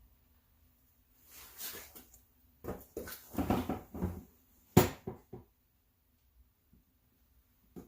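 A few short rattles and knocks of tools and metal parts being handled, with one sharp metallic clank about five seconds in, then quiet.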